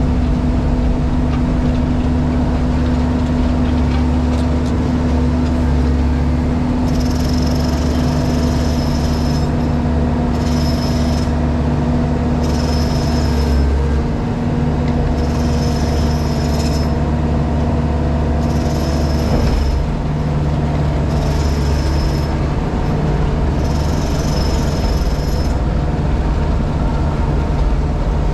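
JCB Pothole Pro's diesel engine and hydraulics running steadily, heard from inside the cab. From about seven seconds in, a high-pitched whine comes and goes in bursts of one to two seconds, repeating roughly every three seconds.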